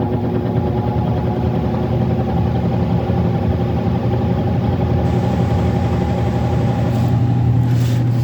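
Furnace blower's squirrel-cage fan running steadily: an even hum with a strong low tone over the rush of moving air.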